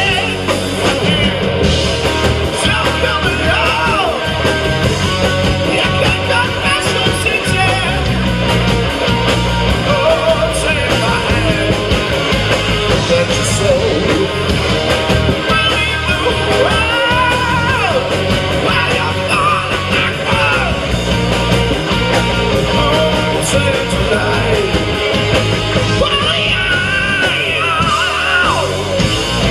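Live rock band playing loud and without a break: electric guitars, bass and drums, with a singer's vocals coming in and out over them.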